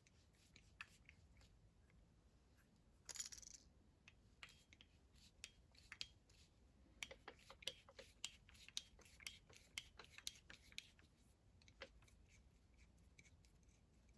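Faint handling noises of small parts: a brief rustle about three seconds in, then a run of light clicks and taps.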